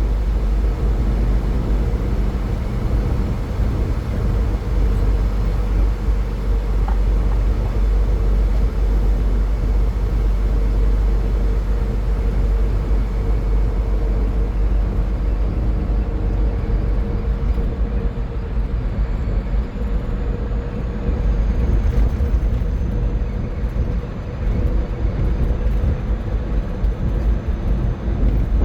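A car driving at highway speed: a steady rush of tyre and road noise over a deep rumble, with a low hum that holds one pitch throughout.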